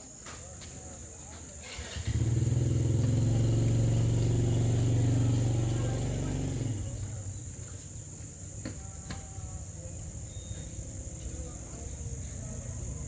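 Crickets chirring steadily. An engine hum starts suddenly about two seconds in, holds steady and loud, then fades away by about seven seconds.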